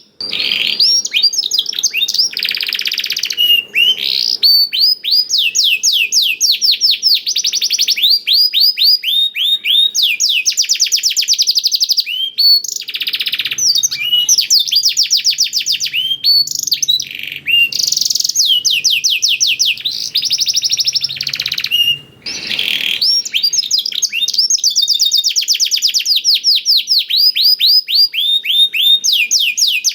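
Domestic canary singing a long, continuous high-pitched song of rapid trills, fast runs of quick repeated notes in phrases a second or two long, its song filled with phrases learned from the blackthroat (black-throated canary). The song breaks off briefly about two-thirds of the way through.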